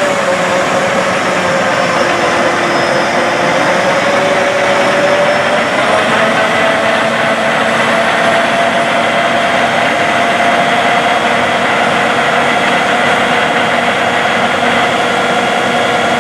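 Large diesel harvest machinery running steadily, with a whine that rises slightly in pitch over the first several seconds and then holds steady.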